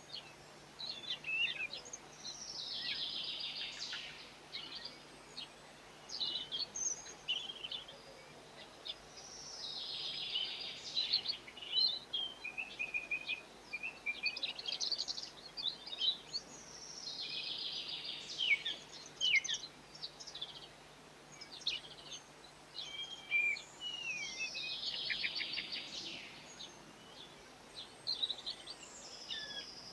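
Songbirds singing: a short, dense trilled phrase repeats four times, about seven seconds apart, with scattered short chirps and twitters between the phrases.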